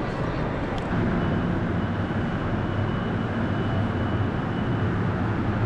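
Amtrak passenger train running, a steady low rumble that steps up slightly about a second in, with a faint high steady tone through the middle.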